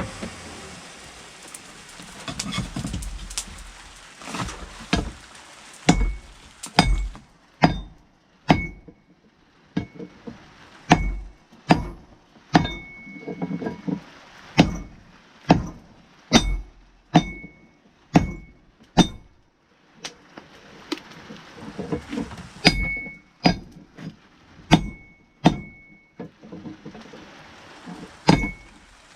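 Blacksmith's hammer striking hot steel on an anvil while forging a wrench into an axe head: an irregular series of blows, roughly one or two a second, each with a short metallic ring, broken by a few short pauses.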